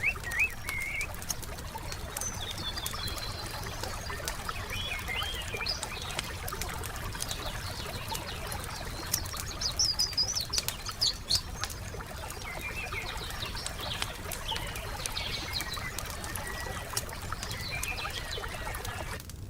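Wood fire crackling with scattered sharp pops, under songbirds chirping and warbling on and off, with a burst of quick high calls around the middle.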